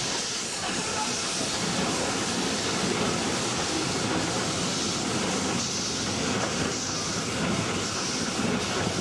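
Train hauled by two W-class steam locomotives on the move: a steady rumble with hiss. In the second half a faint rhythmic pulsing rises and falls in the hiss.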